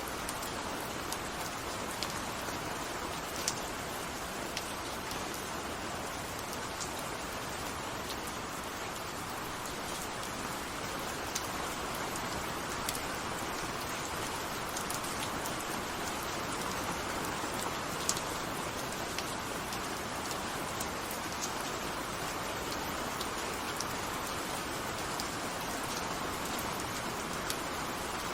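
Steady rain falling: an even, unbroken hiss with scattered sharp ticks of individual drops striking a surface.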